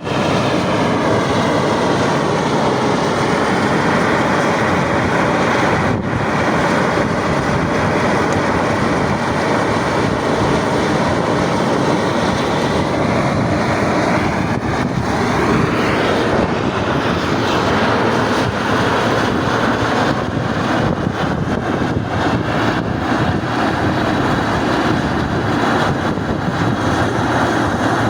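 Steam jetting from a fumarole vent in a volcanic sulfur crater: a loud, steady rushing hiss that holds without a break.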